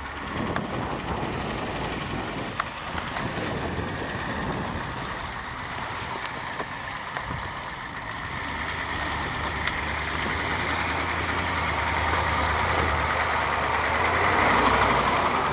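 Ford truck engine running as the truck drives through snow and ice, with a steady noise of tyres and body; the engine grows gradually louder through the second half.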